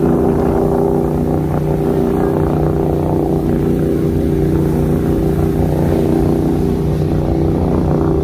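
Watercraft engine running at a steady speed, an even hum that does not rise or fall.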